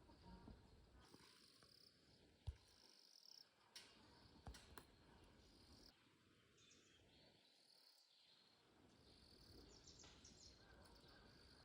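Near silence: faint outdoor ambience with soft high chirping and a few light clicks.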